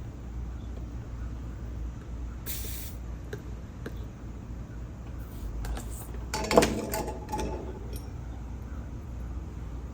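Small metal tools clinking and rattling at a soldering bench: a brief hiss about two and a half seconds in, then a cluster of sharp metallic clinks with short ringing from about six to seven and a half seconds in, the loudest near six and a half. A steady low hum runs underneath.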